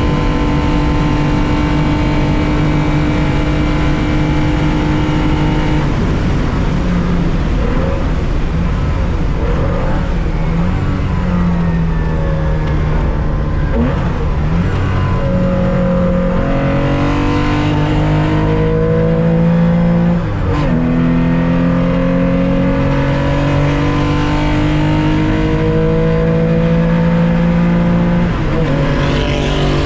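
Air-cooled 2.0-litre flat-six of a 1965 Porsche 911 racing, heard from the cockpit: held at steady revs for the first several seconds, then climbing in pitch through the gears with quick upshifts roughly halfway, about two-thirds of the way and near the end.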